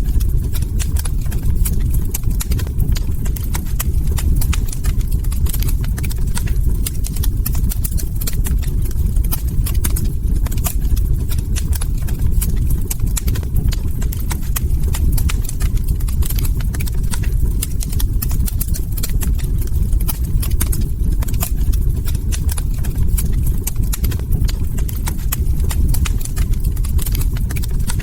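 Log fire crackling: dense, irregular small pops and snaps over a steady low rumble.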